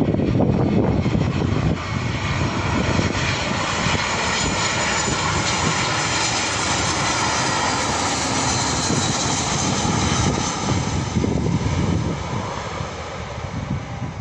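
Jet airliner passing low overhead: a loud engine roar with a high whine that builds, holds for several seconds and then fades away. Wind buffets the microphone at the start.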